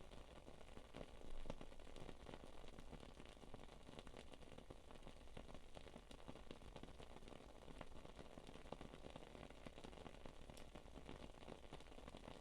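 Wood-wick candle crackling softly: faint, irregular little pops over a low hiss, with a slightly louder crackle about a second and a half in.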